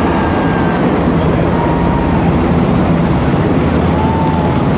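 Army helicopter running loud and steady, its rotor beating rapidly over the deep hum of the engines.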